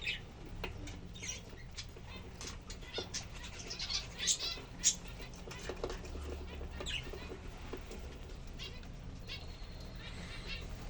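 Lovebirds giving short, sharp chirping calls in quick runs. The calls are busiest a few seconds in and thin out later.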